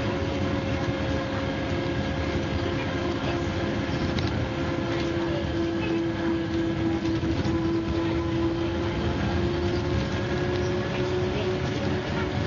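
MCW Metrobus double-decker under way: engine and drivetrain running steadily with road noise, and a steady whine that rises a little around the middle and then eases off.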